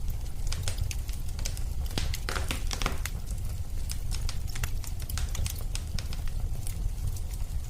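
Wood fire crackling in a fireplace: scattered sharp pops and snaps over a steady low rumble of the flames, with a denser run of crackles about two and a half seconds in.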